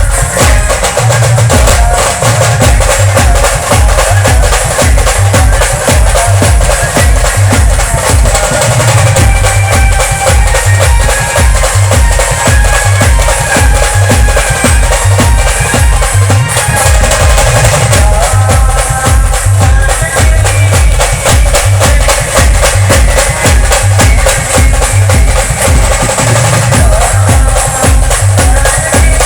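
A band playing loud music: a steady, heavy drum beat with a melody carried over it.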